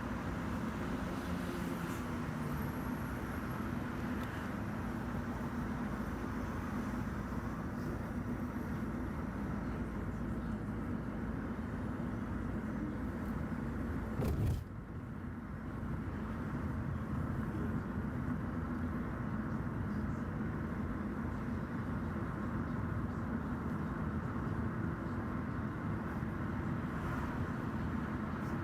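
Car driving on a highway: steady engine and tyre noise with a low hum, broken about halfway by a single sharp knock, after which the noise drops briefly.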